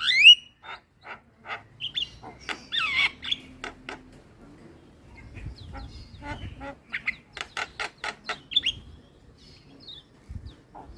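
Javan myna (jalak kebo) calling: a loud rising whistle at the start, then a string of short harsh repeated notes about two a second. After a lull a few seconds in, a faster run of notes follows around the middle.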